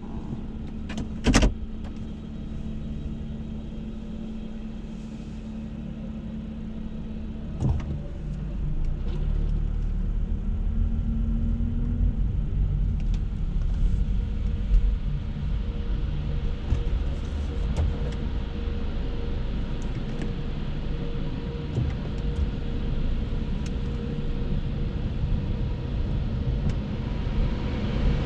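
Car wash machinery and the belt conveyor, heard from inside the car: a steady low rumble and hum that gets louder about eight seconds in, with scattered small knocks. There is a sharp knock about a second in.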